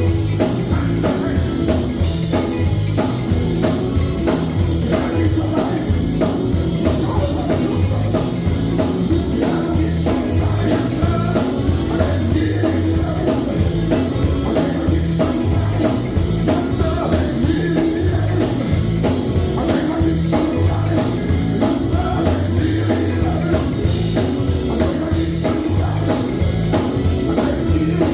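Live gospel band playing an upbeat number, with drum kit and bass keeping a steady beat.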